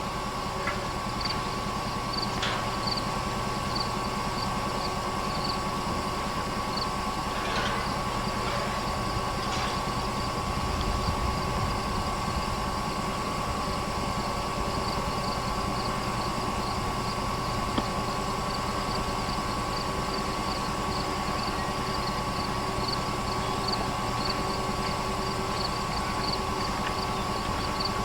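Diesel locomotive engine idling steadily, with a faint high ticking about twice a second.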